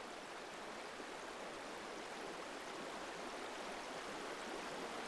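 River water running over stones: a steady, even rush.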